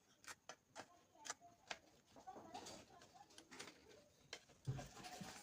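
Faint scattered clicks and light taps, with a soft low thump near the end.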